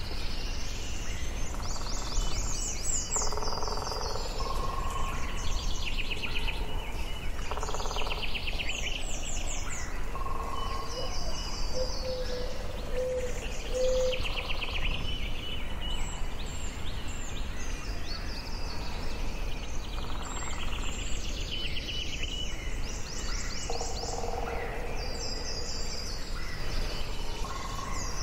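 Forest ambience: several songbirds singing over one another, with rapid high trills and chirps and a few lower whistled notes, over a steady low background hiss.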